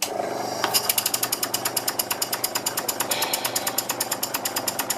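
Stuart No.8 model mill engine started on compressed air: a rush of air, then within a second a fast, even exhaust beat of about ten puffs a second.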